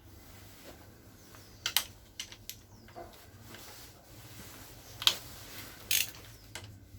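Scattered sharp metallic clicks and knocks of hand tools working on the engine's bottom end, as a connecting-rod cap bolt is undone.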